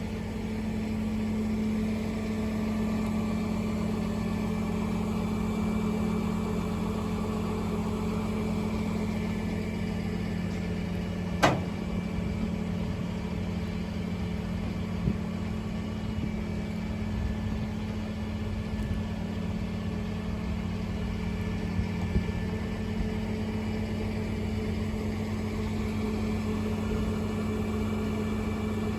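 An engine idling steadily, with one sharp click or knock about a third of the way through.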